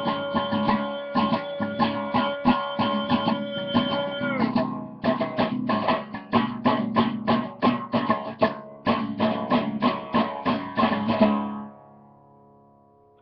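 Guitar picked in a steady rhythm as the song's instrumental ending, with a held note that slides down and stops about four seconds in. The playing stops near the end and the last notes ring out and fade away.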